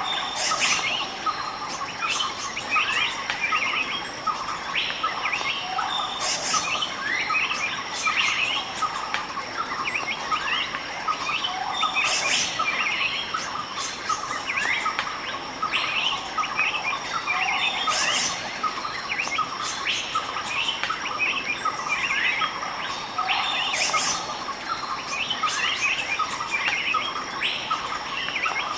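Tropical forest ambience: many birds chirping in quick, overlapping calls over a steady, high-pitched insect drone, with the same pattern coming round about every six seconds.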